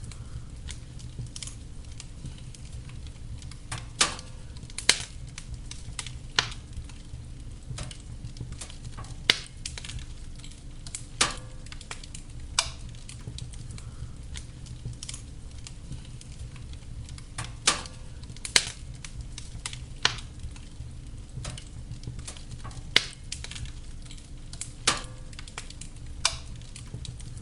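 Wood fire burning in a fireplace: a steady low rumble and hiss with irregular crackles and sharp pops of burning logs, a handful of them much louder than the rest.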